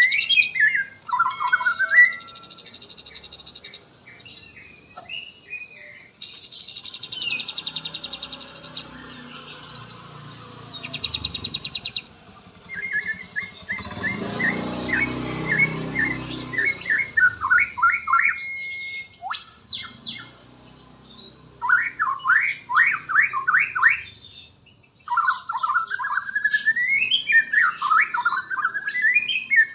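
White-rumped shama (murai batu) singing a long, varied song. It mixes clear whistled phrases and sweeping glides with fast trills and rapid runs of repeated notes, broken by short pauses.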